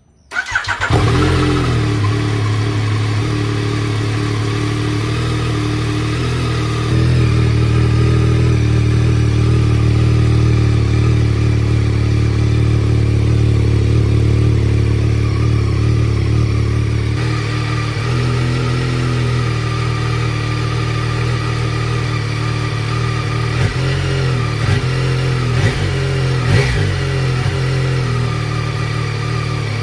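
Yamaha Tracer 9 GT's three-cylinder engine through its stock muffler. It starts up within the first second and then idles steadily. The note steps up slightly around 7 seconds, settles again around 17 seconds, and gives a few small blips later on.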